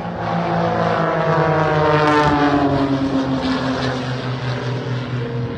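A formation of piston-engine aerobatic propeller planes flying past, several engine drones overlapping and sliding down in pitch as they pass.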